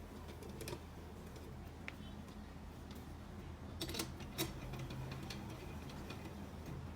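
Scattered light clicks and taps of small parts being handled during engine work, with a sharper pair of clicks about four seconds in, over a steady low hum.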